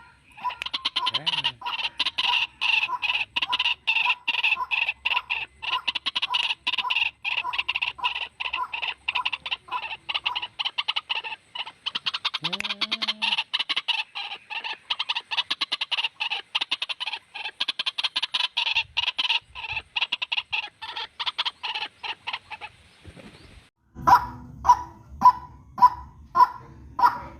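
White-breasted waterhen calls from a lure-call recording: a fast, continuous run of harsh repeated notes. After a short break near the end, a slower series of loud calls follows, just under two a second.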